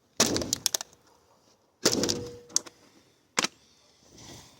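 The glass-breaker tip of an OTF knife striking a Coke bottle: two heavy knocks about a second and a half apart, each with a short crackling tail, the second ringing briefly. A sharper single click follows near the end.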